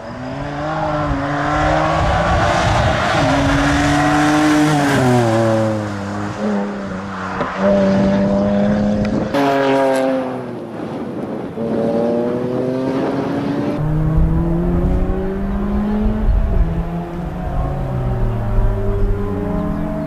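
BMW 130i rally car's 3.0-litre straight-six engine revving hard, its pitch climbing and falling back over and over through gear changes and braking for the corners.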